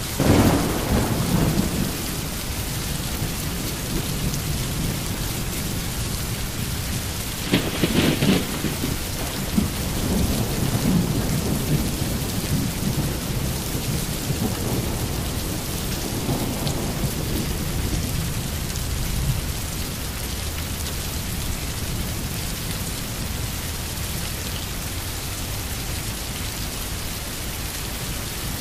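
Steady rain with thunder. A rumble of thunder comes right at the start and fades over a couple of seconds. A sharper crack about eight seconds in rolls on for a few seconds, and a fainter rumble follows around the middle.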